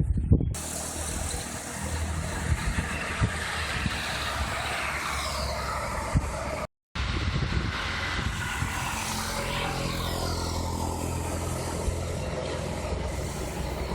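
A vehicle engine running steadily, a low hum under a wide even noise, cut off for a split second about seven seconds in.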